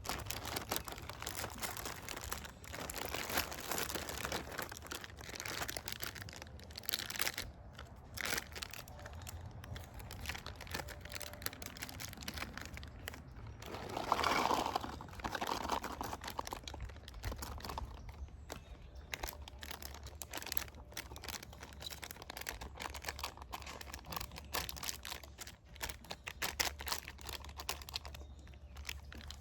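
Plastic packaging of a bagged chopped salad kit crinkling and rustling as it is handled and opened, in a long run of irregular crackles that is loudest about fourteen seconds in.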